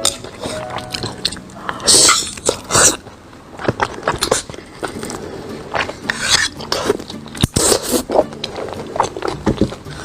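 A person biting and chewing food close to the microphone, with many short wet clicks and two louder bites about two and three seconds in.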